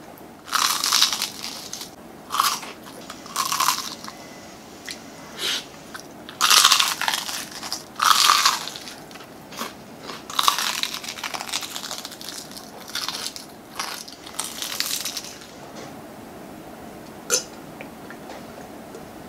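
Close-up crunching of crispy Chowking fried chicken being bitten and chewed, in loud clusters of crunches through most of the stretch. It then goes quieter, with a single sharp click near the end.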